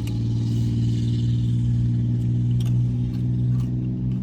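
Steady low hum of a car engine idling, heard from inside the car, with a few short crunches from chewing tortilla chips.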